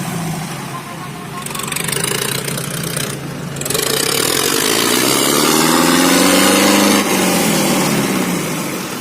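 Tractor diesel engine running hard under load, its pitch rising from about four seconds in and dropping back near the end.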